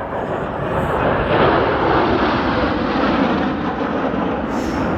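Jet noise of Thunderbirds F-16 fighter jets flying past, a loud rushing roar that swells over the first second and a half, holds, then eases slightly near the end.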